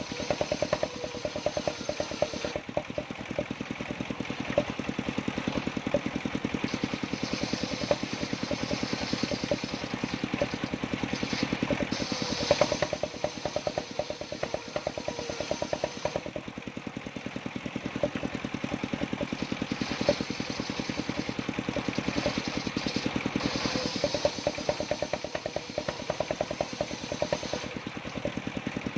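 Engine of a portable circular sawmill running steadily with a rapid, even firing beat, while a higher hiss swells and fades at intervals as the saw blade cuts through jowar wood.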